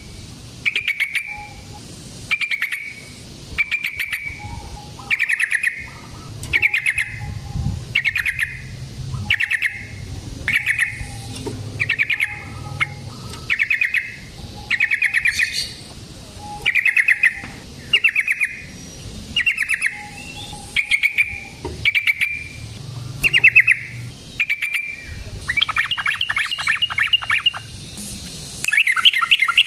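Yellow-vented bulbul (trucukan) singing: short bubbling phrases repeated about once a second, turning into longer rapid chattering runs near the end.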